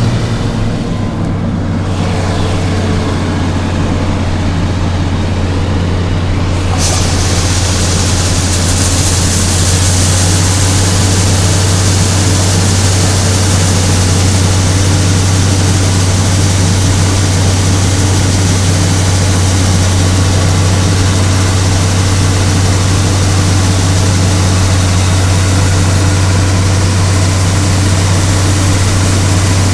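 Combine harvester's diesel engine running steadily with a deep, even hum during soybean harvest. A louder rushing noise joins suddenly about seven seconds in and holds.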